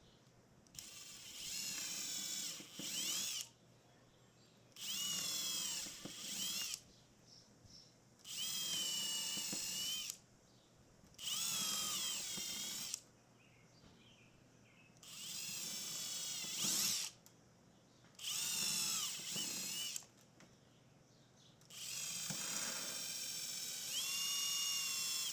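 Power drill running in about seven short bursts of one to three seconds each, its motor whine dipping and rising in pitch under load, with quiet pauses between.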